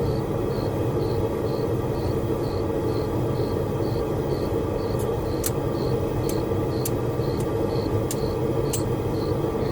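Steady roar of a running blacksmith's forge, with a faint high chirp repeating about twice a second. Several sharp ticks come in the second half.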